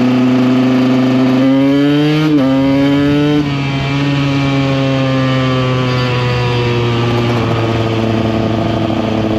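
KTM EXC 125's single-cylinder two-stroke engine under way: the revs climb, break briefly about two seconds in as a gear is shifted, and climb again. After about three and a half seconds the throttle comes off, the sound gets quieter and the revs sink slowly as the bike slows.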